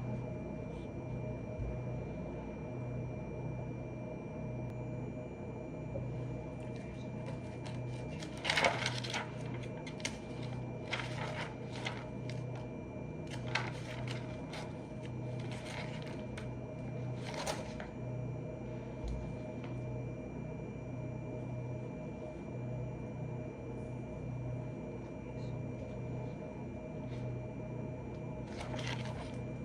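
Steady low electrical hum, with a handful of brief handling noises from desk work: several between about 8 and 18 seconds in and one more near the end.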